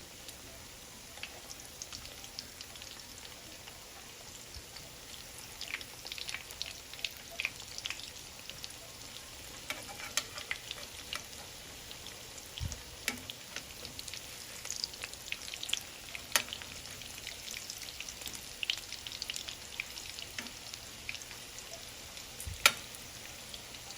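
Sardine fritters frying in oil in a pan: a steady low sizzle with scattered crackles and pops throughout. There is a dull thud about halfway through and a sharp knock near the end.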